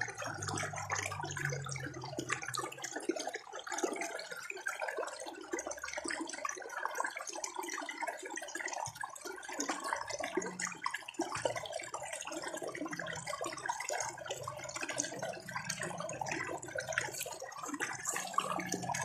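Shallow water gurgling and trickling steadily over stones in a stream channel.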